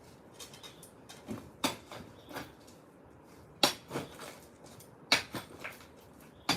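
Sharp knocks of concrete and hand tools during manual concrete demolition: four loud hits roughly one and a half to two seconds apart, with smaller knocks between them.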